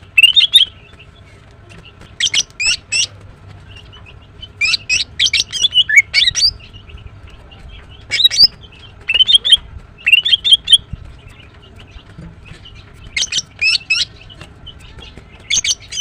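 Female greater green leafbird (Chloropsis sonnerati) calling: clusters of short, sharp, high chirps, with pauses of a second or two between the clusters.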